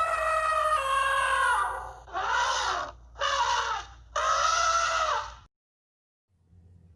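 A series of loud animal cries, each with a clear pitch and strong overtones: one long falling cry, then three shorter cries with the last the longest. The sound cuts off abruptly about five and a half seconds in.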